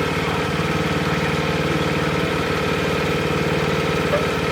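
Wood-Mizer LX25 band sawmill's engine running steadily at an even pitch.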